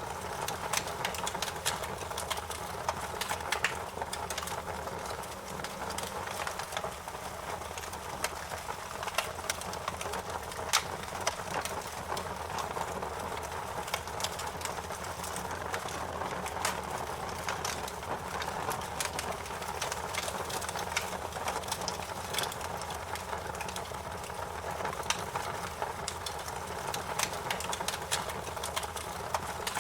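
Campfire crackling: a steady hiss with frequent sharp pops and snaps of burning wood.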